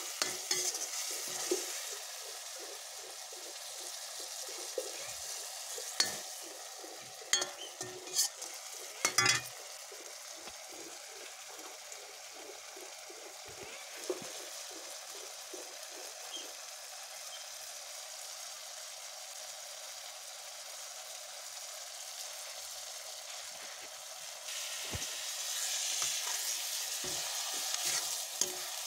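Vegetables frying in a kadhai over an open flame: a steady sizzle, with a spatula clicking and scraping against the pan several times in the first ten seconds. The sizzle grows louder about 25 seconds in.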